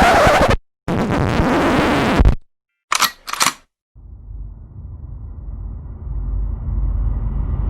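A run of separate stock sound effects with gaps of silence between them. There is a short noisy burst, then a longer noisy effect, then two quick clicks about three seconds in, then a low rumbling swell that keeps rising in loudness and pitch.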